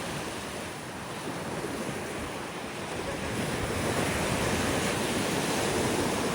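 Ocean surf washing onto the shore, with wind blowing on the microphone; the wash eases about a second in and swells again around three to four seconds in.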